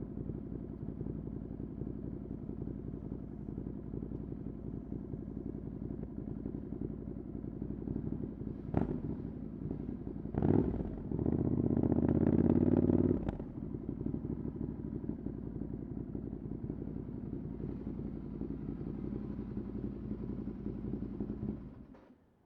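Ducati Desert Sled's air-cooled 803 cc L-twin running through a LeoVince exhaust with no dB killer, turning over steadily at low revs. About ten seconds in it picks up and runs louder for about three seconds, then settles back, with a single click just before. The sound cuts off near the end.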